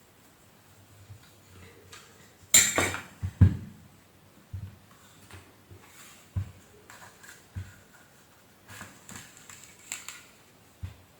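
Clattering and tapping of small metal and plastic parts being handled during vacuum cleaner motor work: a loud cluster of knocks about two and a half seconds in, then scattered single taps.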